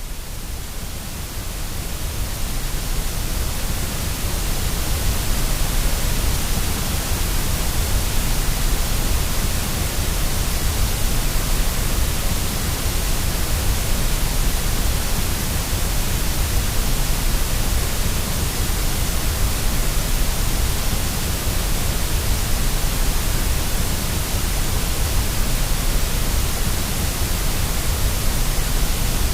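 Steady white noise for baby sleep: an even hiss with a deep rumble underneath. It swells in level over the first couple of seconds, then holds constant.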